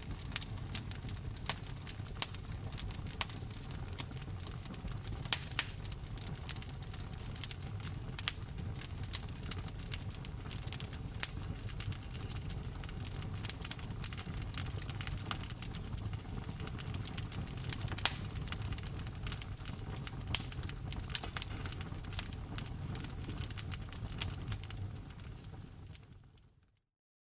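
Wood fire crackling, with frequent sharp pops and snaps over a low steady rumble of the burning. It fades out to silence near the end.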